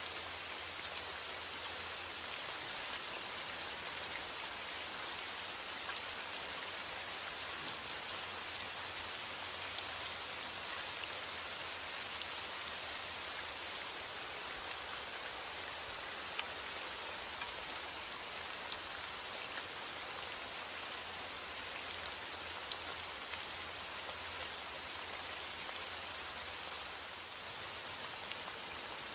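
Steady, heavy rain falling, an even hiss with many small drop ticks spattering on surfaces.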